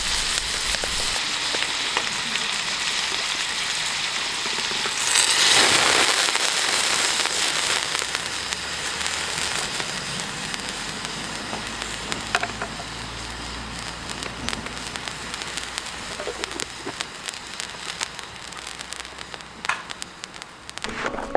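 Food sizzling in a pan over a wood campfire, with the fire's crackling pops throughout. The hissing swells louder about five seconds in, then slowly dies down.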